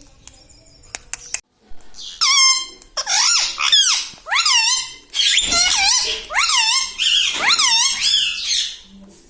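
Indian ringneck parakeet calling: a string of about a dozen high, pitched calls, each swooping up and down, beginning about two seconds in after a few faint clicks.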